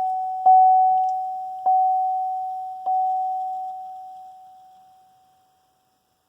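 2016 Buick LaCrosse's warning chime: a single mid-pitched tone struck three times, about a second and a quarter apart, each strike ringing and fading, then dying away after about five seconds.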